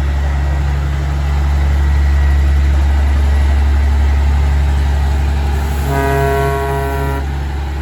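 Kenworth semi-trucks' diesel engines running with a loud, deep rumble, and about six seconds in, one truck horn blast lasting about a second and a half.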